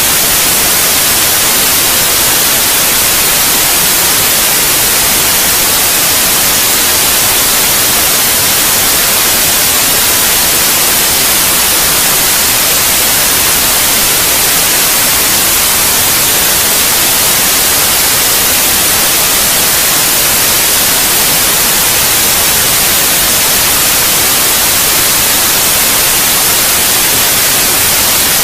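Steady white noise: a loud, even hiss, strongest in the treble, that never changes. It is played as a sleep aid for babies.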